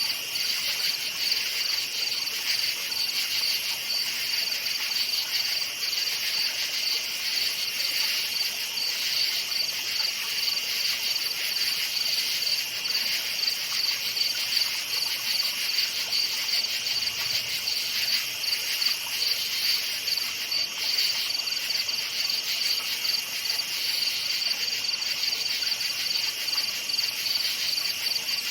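Crickets chirping steadily, a dense high-pitched pulsing chorus with a weaker lower band beneath, over faint night background hiss.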